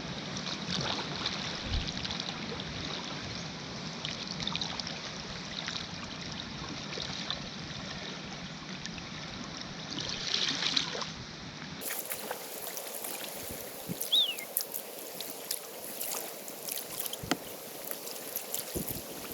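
Steady rushing noise of river rapids. About twelve seconds in it gives way abruptly to a quieter outdoor ambience with scattered clicks and one short falling bird chirp.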